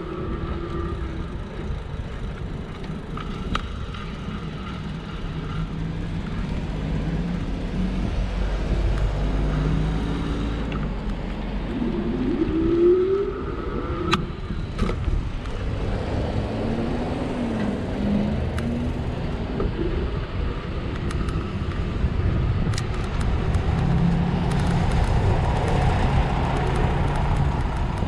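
Road traffic passing, with engine hum that rises and falls, over a steady low rumble of wind on the microphone of a moving bicycle.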